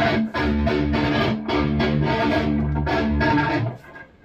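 Electric guitar through a Bogner Uberschall high-gain preamp, playing a heavy distorted riff of repeatedly picked low notes and chords. The riff breaks off briefly near the end.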